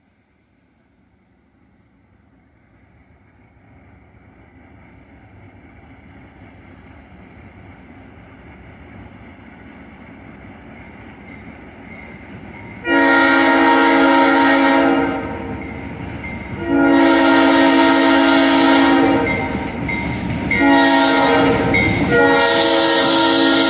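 An Alco RS-11 diesel locomotive's train approaches, its rumble growing steadily louder. Then its multi-chime air horn sounds two long blasts, a short one and a long one that is still going at the end, the standard grade-crossing signal.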